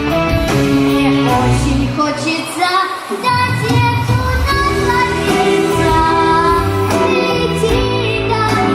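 A girl singing a melodic song over instrumental accompaniment.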